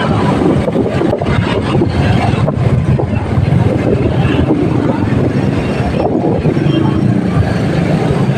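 Motorcycle running steadily on the road, engine and road noise without a break.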